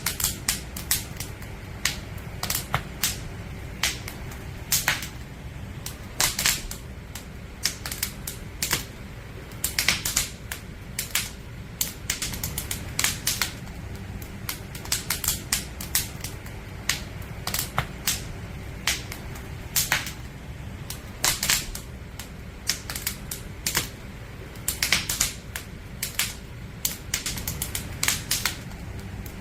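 Wood campfire crackling: irregular sharp pops and snaps from burning firewood, some clustered and some single, over a low steady rumble of the flames.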